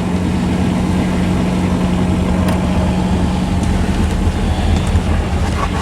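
Sailboat's auxiliary engine running steadily, a low rumble with a steady hum, used to motor through a windless calm.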